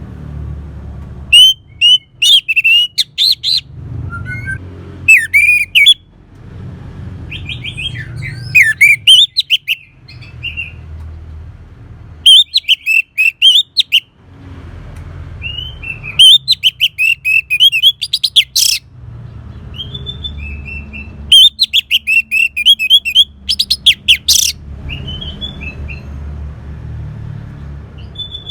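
Orange-headed thrush singing: about six loud, rapid, varied warbling phrases of one to three seconds each, separated by short pauses, over a low steady hum.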